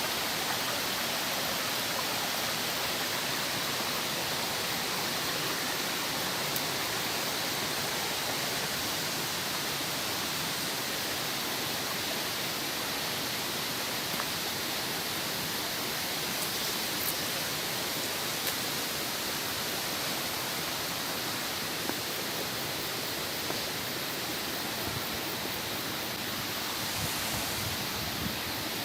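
Running water of a rocky stream at a waterfall: a steady, even rush, with a few faint clicks over it.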